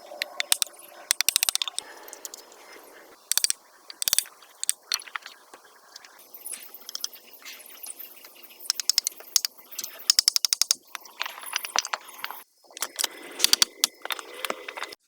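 Repeated bursts of rapid clicking and rattling, hard objects knocking together, with quieter stretches between.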